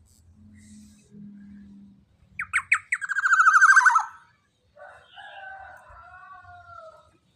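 Young black-naped oriole (kepodang) calling: a few short sharp notes, then a long, harsh, buzzy call that is the loudest part, then a softer, lower rasping call near the end.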